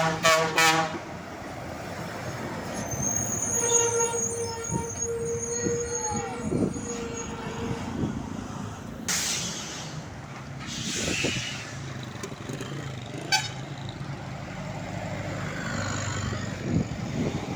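Heavy truck engine running as traffic passes, with short horn toots right at the start and a steady whine for several seconds. A sharp hiss of air comes about nine seconds in and a weaker one near eleven seconds.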